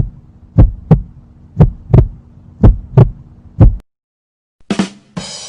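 Heartbeat sound effect: paired low thumps, lub-dub, about once a second over a steady low hum, five beats in all, stopping about four seconds in. A short burst of noise follows, and a hissing sound begins near the end.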